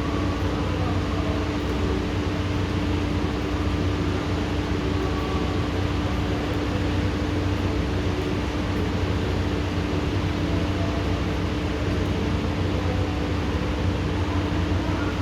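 Steady hiss of rain during a thunderstorm, with a constant mechanical hum under it.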